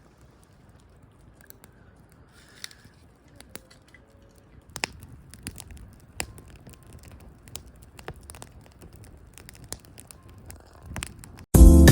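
Faint scattered clicks and crackles, then loud music starts suddenly near the end.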